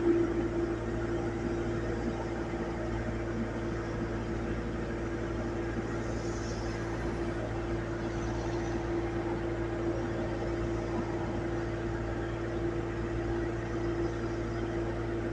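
Steady mechanical hum with a constant whine held at one pitch, unchanging throughout.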